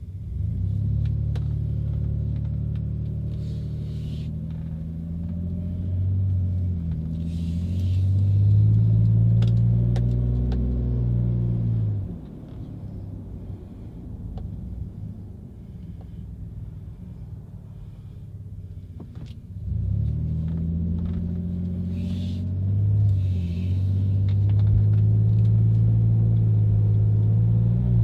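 Exhaust of a 2017 Chevy Silverado's 4.3-litre V6 breathing through cheap dual-outlet eBay "racing mufflers", heard from inside the cab with a deep tone. The truck accelerates twice, the engine note climbing and dropping back at each gear change, with a quieter spell between the two pulls.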